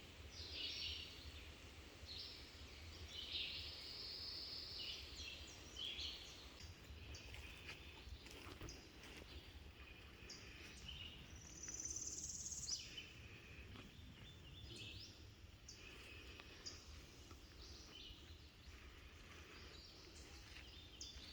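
Wild birds calling and singing in woodland: many short chirps and several longer high phrases throughout, over a faint low rumble.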